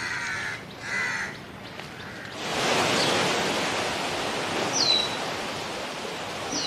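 Birds calling: two short harsh caw-like calls about a second apart. Then, from about two and a half seconds in, a steady rushing noise with two high, quickly falling whistles over it.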